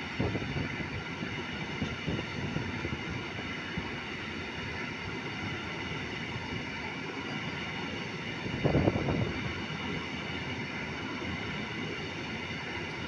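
Freight train of tank wagons rolling past, a steady rumble of wheels on rail, with a louder surge lasting about a second roughly two-thirds of the way through.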